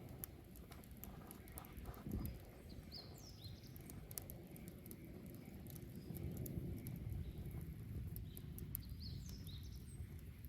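Wood bonfire burning, with many small crackles and pops over a steady low rumble. A dull thump comes about two seconds in, and a few short high chirps are heard around three and nine seconds.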